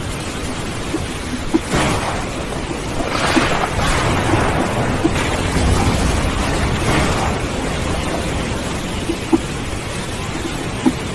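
Steady rain with low rolling thunder, swelling several times, and a few sharp ticks of drops.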